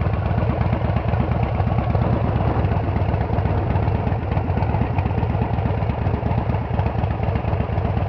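Harley-Davidson Dyna Wide Glide's air-cooled V-twin engine idling steadily, its fast firing pulses running evenly throughout.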